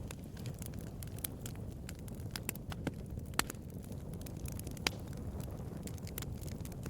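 Bonfire crackling: a steady low rumble of burning under a constant scatter of small snaps. Two louder pops come about three and a half seconds in and again about a second and a half later.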